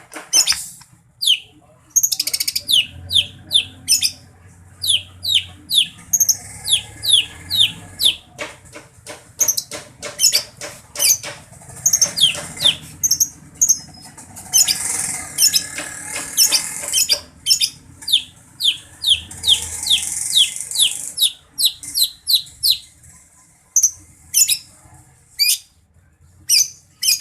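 Greater green leafbird (cucak ijo) singing: fast runs of short, sharply down-slurred whistled notes, several a second, twice breaking into a dense high chattering warble.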